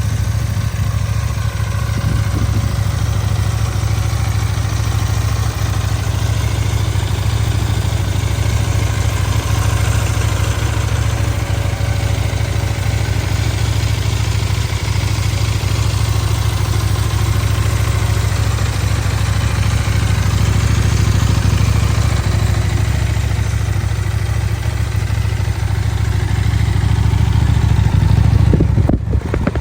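2024 Husqvarna Svartpilen 801's 799 cc parallel-twin engine idling through its stock exhaust, steady and loud, swelling a little around twenty seconds in and again near the end.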